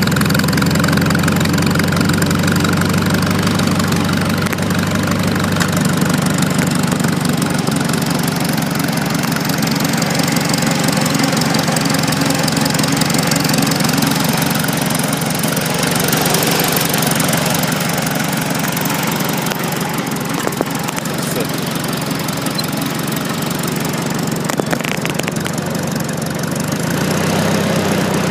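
Farmall Super A tractor's small four-cylinder gasoline engine running steadily at idle with an even, smooth beat; the owner says it runs really good and doesn't smoke. It eases off a little about twenty seconds in, then picks up again near the end.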